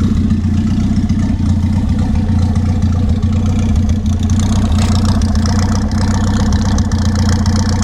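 1982 Datsun wagon's four-cylinder engine running steadily, at an even pitch throughout.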